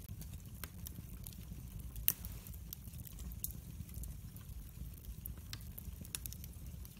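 Wood fire burning in a fireplace: a steady low rumble of flames with frequent sharp crackles and pops, the loudest about two seconds in.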